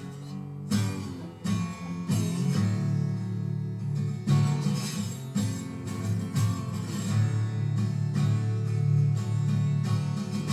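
Instrumental break in a live song: acoustic guitar strummed in a steady rhythm, with no singing.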